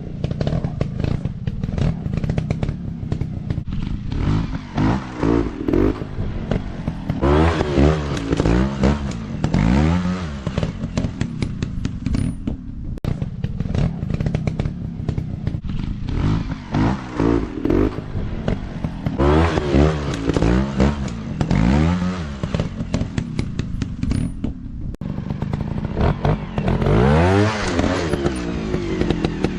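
Dirt bike engine revving up and down again and again in bursts, over a steady run between them.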